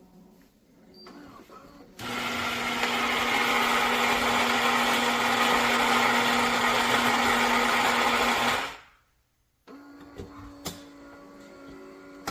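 Philips Series 3300 fully automatic espresso machine running: a loud steady whir with a low hum starts about two seconds in, lasts about six and a half seconds, then winds down. Quieter machine sounds with a few clicks follow.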